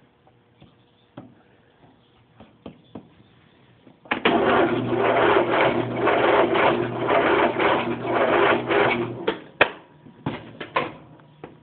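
Electric starter cranking the John Deere L111's 20 hp Briggs & Stratton V-twin, starting about four seconds in and turning it over steadily for about five seconds before stopping, without the engine firing: a cold start after sitting since December. A few sharp clicks follow.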